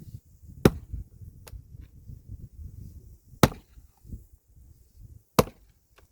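Firewood being split by hand with an axe: three sharp, loud chopping strikes about two to three seconds apart, with a faint click between the first two and a low rumble beneath.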